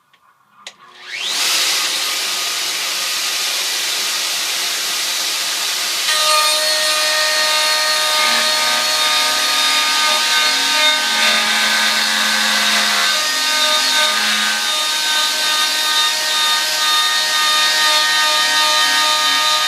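Wood router switching on about a second in and spinning up with a rising whine, then running steadily; from about six seconds in it gets a little louder and takes on a harsher, multi-toned note as the bit cuts a spiral groove into the wood turning on the lathe.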